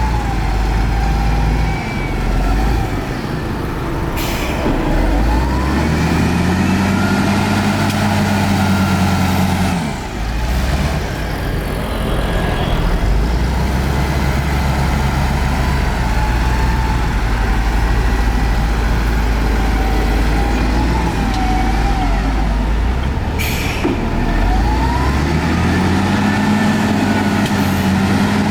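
Heavy diesel engine of a Shantui bulldozer working with a steady low rumble, its pitch rising twice as it revs up under load and dropping back in between. Two brief high hisses come about four seconds in and again near twenty-three seconds.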